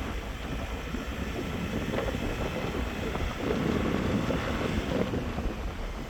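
Wind buffeting the microphone: a steady rushing noise with a low rumble that swells slightly partway through.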